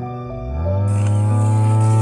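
A cow mooing: one long, low moo that rises in pitch about half a second in and then holds steady, over soft background music.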